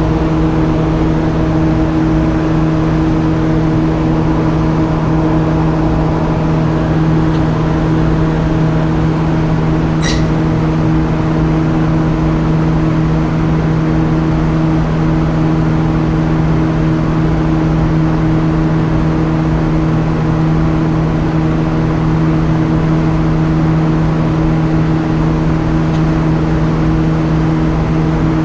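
Boat engines running with a steady, unchanging drone and a strong low hum. A brief high chirp cuts through about ten seconds in.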